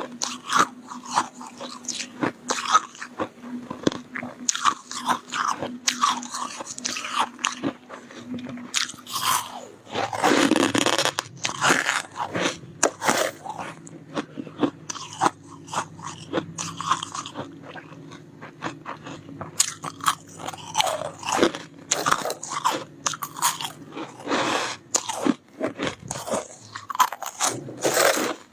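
Close-up bites and chewing of soft, powdery freezer frost: many irregular, crisp crunches, denser and louder for a couple of seconds about a third of the way in.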